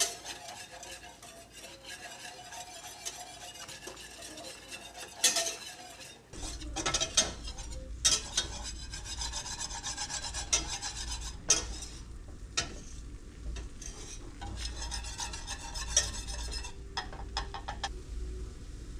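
A butter-and-flour roux being stirred in a hot pan: a utensil scraping and rubbing around the pan with a light sizzle, and sharp clinks as it knocks against the pan every second or two. A low steady hum comes in about six seconds in.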